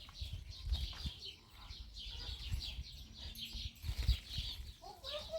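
Birds chirping over and over in short, quick, high chirps, with low rumbling thumps underneath.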